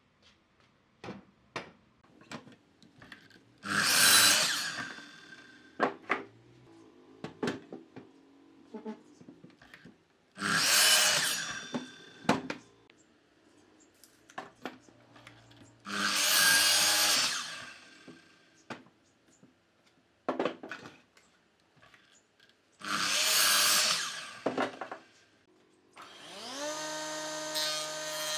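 A power tool cutting wood in four short passes of about two seconds each, with knocks and clicks of wood being handled in between. Near the end a motor spins up, rising in pitch, and keeps running steadily.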